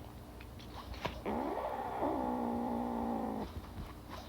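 A cat's long, drawn-out meow of about two seconds, rising in pitch at first and then held level before it stops.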